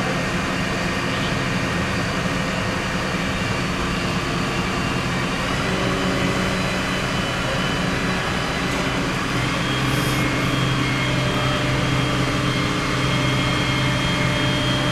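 Heavy diesel engine of a fire service vehicle running steadily, its engine note stepping up twice partway through.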